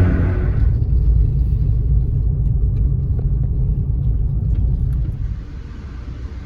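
Low, steady rumble of a train, which drops away noticeably about five seconds in.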